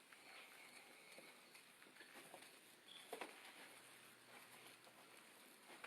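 Near silence: quiet room tone with a few faint, scattered taps and clicks, the clearest about three seconds in.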